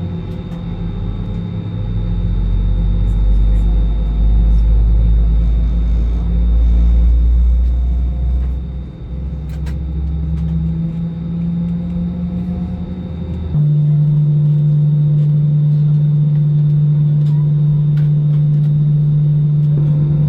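Airbus A320 cabin noise before departure. A loud low rumble rises and shifts for the first part, then about two-thirds of the way through it switches abruptly to a steady, even hum.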